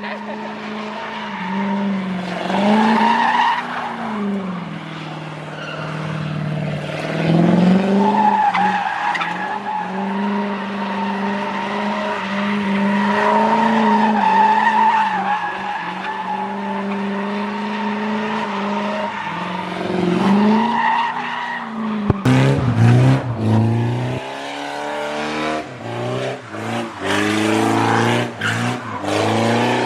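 A car's engine held at high revs, its pitch wavering up and down, with tires squealing as the car slides in donuts. About 22 seconds in the sound changes to an engine revving in a string of quick rising sweeps.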